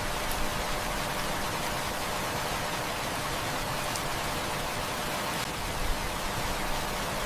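Heavy rain falling steadily, a dense even hiss, with a few faint pops from a crackling wood fire.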